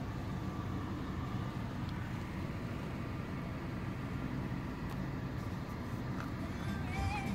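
Car engine idling steadily, heard from inside the cabin as a low hum. A short warbling chirp comes near the end.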